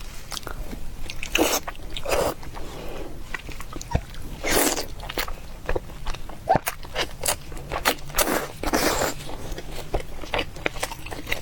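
Close-miked eating sounds of a person biting and chewing braised pork belly: wet, sticky chewing with many small clicks and smacks, and now and then a louder bite.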